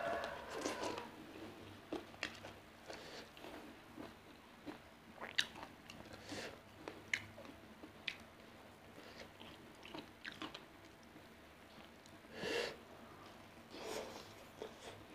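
Close-up chewing and biting of ayam geprek (smashed crispy fried chicken) with rice: irregular crunches and wet mouth clicks, with a louder stretch of chewing about twelve seconds in.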